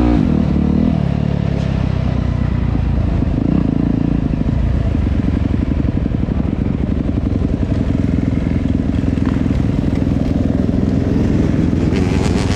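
Dirt bike engine running steadily as it is ridden, its revs falling away in the first second or so.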